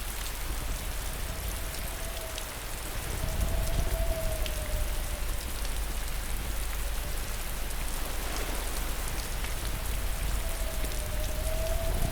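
Steady rain falling, an even hiss with scattered drop ticks over a low rumble. A faint wavering tone swells and fades a few times.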